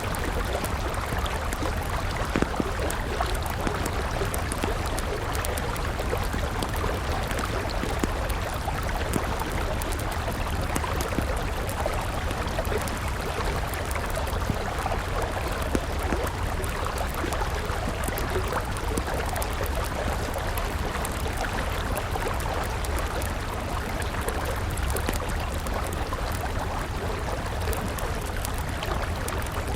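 River water flowing steadily with a low rumble, and a wood campfire crackling with a few sharp pops now and then.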